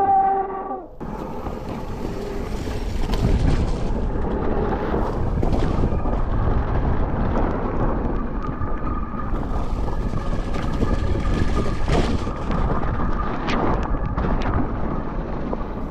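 Mountain bike riding down a wet, rooty trail: steady wind and rumble on the bike-mounted microphone, with tyres and frame rattling and knocking over roots and rocks. A faint whine joins in about halfway through.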